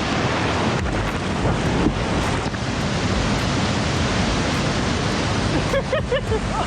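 Steady rush of whitewater in a river rapid, with wind noise on the microphone.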